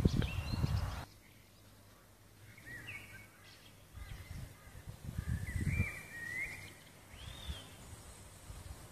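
Small birds chirping in three short bursts of quick up-and-down notes, over a low rumbling of wind on the microphone at the start and again mid-way.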